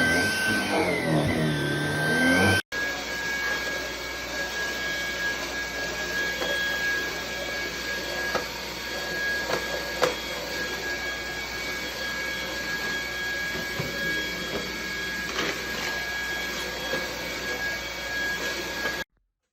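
Dreametech T10 cordless stick vacuum's high-speed motor running steadily, a high whine over a rushing hiss of air. It cuts off abruptly near the end. For the first few seconds there is a different sound whose pitch wavers up and down, cut short by a sudden break.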